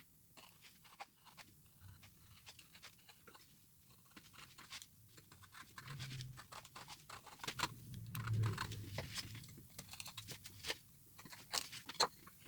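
Hand carving tool cutting into a wooden block: an irregular run of short crunching cuts and scrapes as chips are pared away, with a couple of duller knocks midway.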